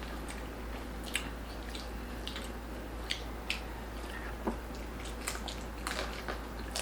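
Close-up chewing and biting of crispy lechon pork belly, with irregular short crunches and wet mouth clicks, over a steady low hum.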